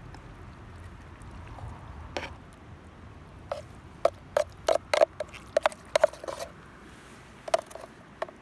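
Metal utensil clicking and tapping against an aluminium army-style mess tin, about a dozen irregular clinks in the second half, each with a short ring at the same pitch.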